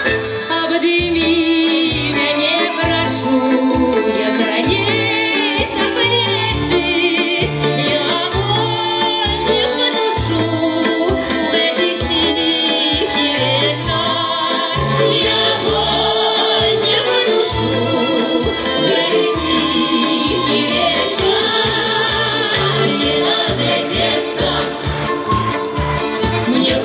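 Live music from a folk-music ensemble: wavering melody lines over a steady bass beat.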